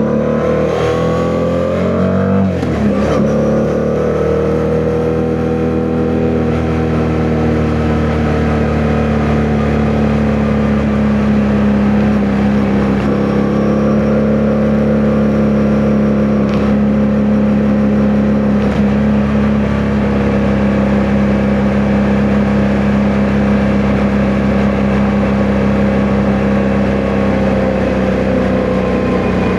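Yamaha MT-07's parallel-twin engine under way: it revs up for the first couple of seconds, drops in pitch sharply with a gear change about three seconds in, then runs at a nearly steady cruising speed with only slow rises and falls in revs.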